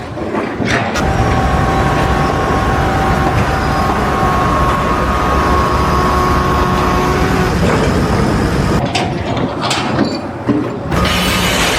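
Steady mechanical noise of a running vehicle or heavy machine, broken briefly by abrupt cuts around nine and eleven seconds in.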